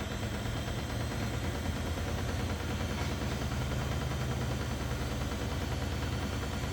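Washing machine on its spin cycle: a steady hum with a rapid low pulsing from the spinning drum.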